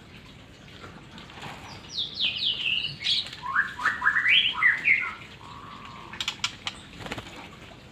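White-rumped shama singing a phrase of quick whistled notes that step down from high to lower pitch, ending on a short held lower whistle, followed by a few sharp clicks.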